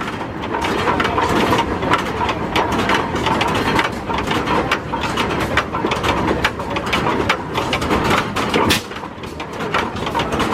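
1908 Hart-Parr 30-60 tractor's oil-cooled two-cylinder engine running, with a fast, uneven train of sharp exhaust pops over a low rumble.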